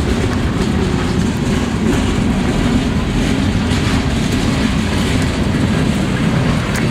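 A train rolling past: a steady rumble of wheels on the rails, with faint scattered clicks.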